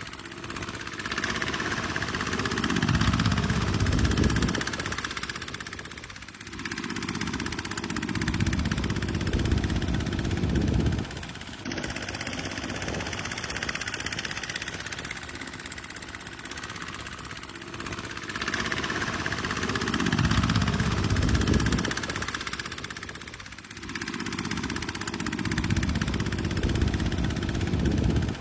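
Tractor diesel engine working hard in mud: a steady running sound that swells into a heavier low rumble for a few seconds at a time, four times, then eases back.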